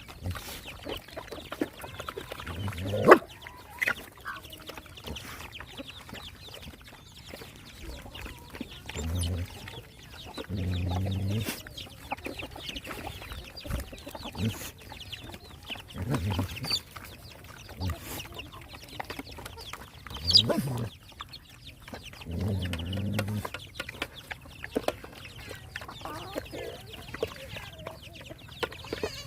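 Chickens clucking in short calls, with scattered clicks and knocks between them.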